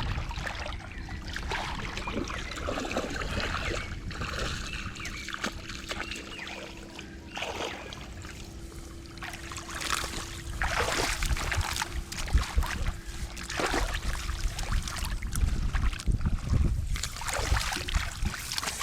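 Water splashing and sloshing in irregular bursts, as someone works by hand in shallow water, over a constant low rumble.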